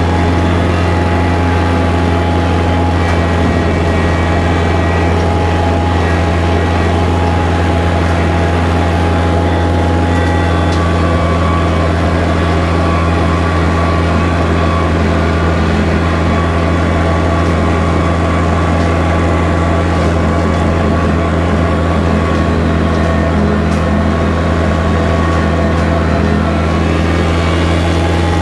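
Kubota tractor's diesel engine running at a steady speed, a constant low drone.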